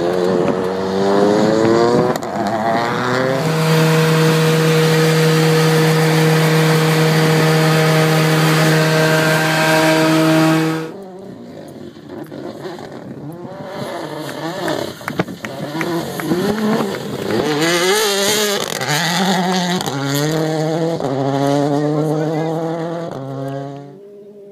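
Mini rally car engine revving up, then held at a steady high pitch for several seconds. The sound cuts off abruptly, and the engine is then heard farther off accelerating hard through a series of upshifts, its pitch climbing and dropping with each gear change.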